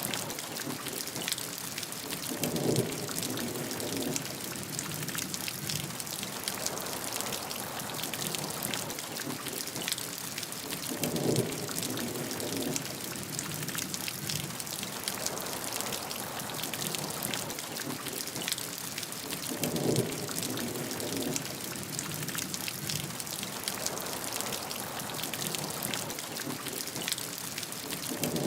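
Steady rainfall, a dense even hiss with many distinct drop ticks. A brief lower-pitched swell rises out of it four times, about every eight and a half seconds.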